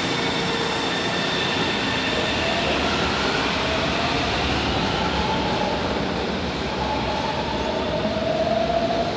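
São Paulo Metro Line 3 train running through the station, a steady rumble of wheels on rail with a whine that rises in pitch and grows louder over the second half.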